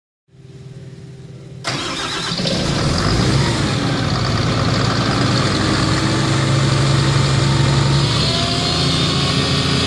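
Hitachi Zaxis 350LC-3 excavator's diesel engine starting: the starter cranks briefly, the engine catches about a second and a half in, picks up, and settles into a steady run.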